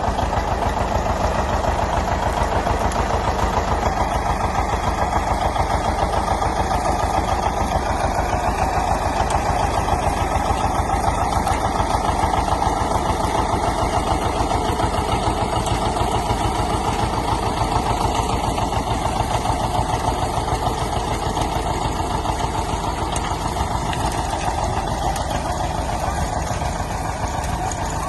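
John Deere 730 diesel tractor's two-cylinder engine running steadily with a fast, even beat.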